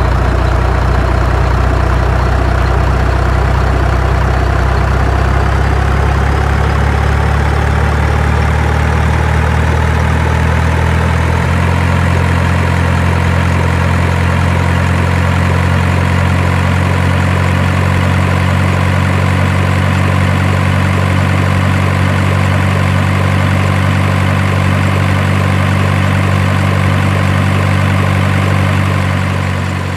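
A heavy engine idling steadily, with a loud, low hum, fading out near the end.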